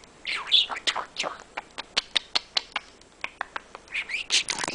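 Pet budgerigar chattering: warbling chirps, then a run of quick clicks about five a second, then more warbling near the end.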